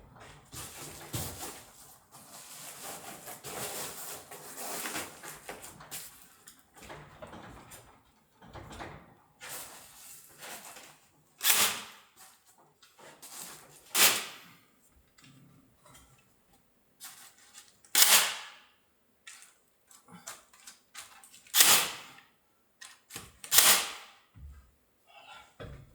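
Separate sharp knocks or bangs, about five loud ones spread over the second half with fainter ones between, after a few seconds of soft hiss-like noise.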